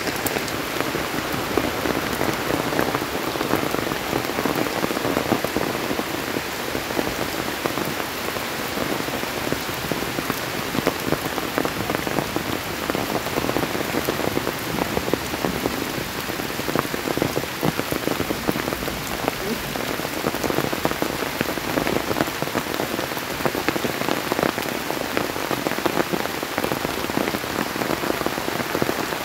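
Steady rain falling on broad leaves and wet ground: an even hiss dotted with countless small drop ticks.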